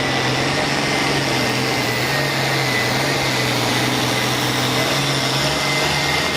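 Pulling tractor's engine running hard and steady, a loud rushing noise with a low hum and a thin, steady high whine over it.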